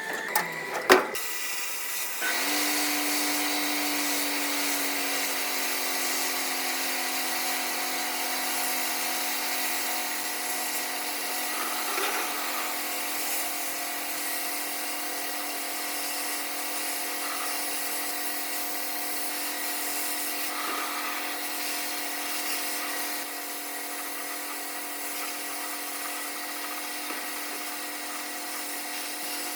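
A few clicks, then an electric power tool starts about two seconds in and runs steadily at an even pitch.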